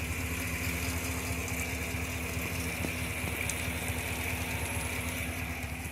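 2018 GMC Yukon Denali's engine idling steadily, heard from beneath the truck.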